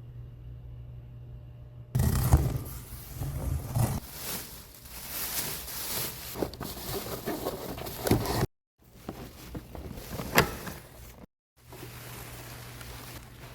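Cardboard packaging being handled and opened: rustling, scraping and sharp tearing noises in short cut-together takes that drop out suddenly twice, over a low steady hum.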